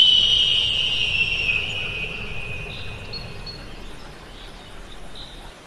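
A bird of prey's single long scream, starting high and sliding down in pitch as it fades over about four seconds, followed by a few faint short chirps, with a low rumble underneath.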